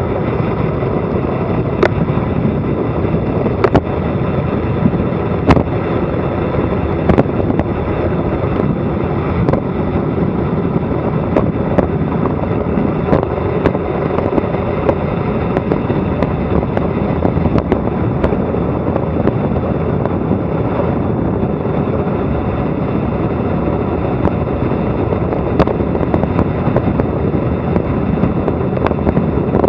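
Wind rushing over an action camera's microphone on a fast bicycle descent: a loud, steady rush, broken by many irregular short knocks and rattles from bumps in the road.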